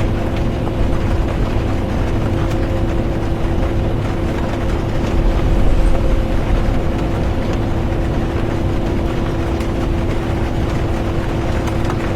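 Bus interior while driving: a steady low engine and road rumble with a constant whine, and rain on the bus. It swells slightly about halfway through.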